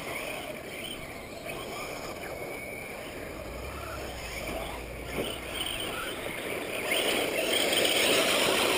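Radio-controlled race cars running on the track: a steady, noisy mix of motors and tyres that gets louder in the last two seconds.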